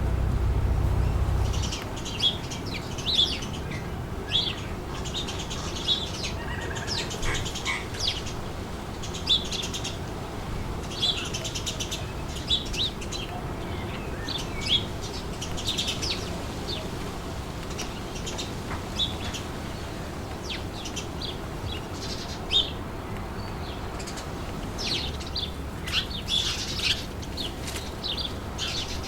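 Small birds chirping in many short, repeated high calls over a steady windy background. A low wind rumble at the start drops away about two seconds in.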